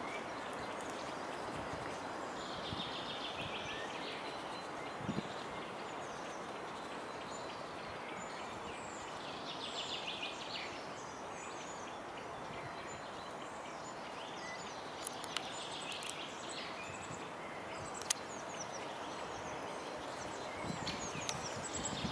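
Steady outdoor background noise with small birds chirping in short high bursts every few seconds, and a couple of faint clicks.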